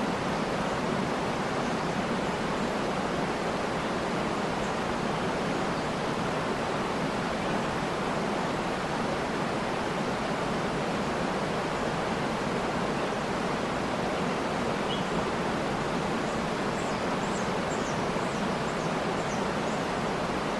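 Waterfall rushing steadily, an even wash of falling water. Faint, short, high bird chirps come in a brief cluster near the end.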